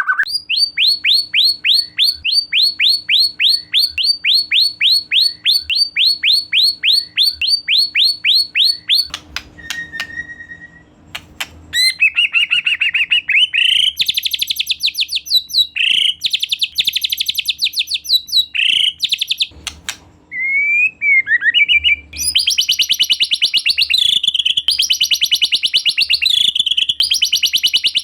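White-rumped shama singing: first a long run of rapid, falling whistled notes at about four or five a second. After a short pause with a single whistle, it breaks into fast trills and dense chattering phrases that repeat.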